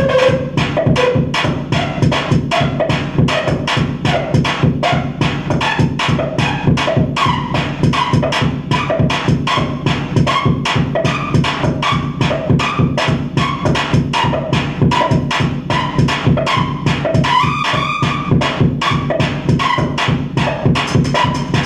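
Loud live electronic music: a fast, even pulse of sharp machine-like beats over a steady low drone, with short pitched blips repeating through it.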